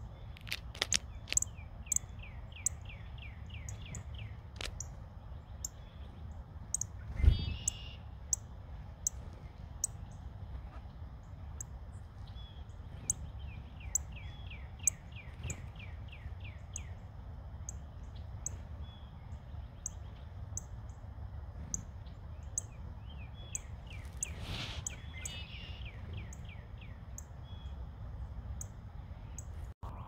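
Small wild birds calling in several rapid runs of short repeated notes, each run lasting a few seconds. A steady low rumble lies underneath, with sharp high ticks about once a second and a single loud thump about seven seconds in.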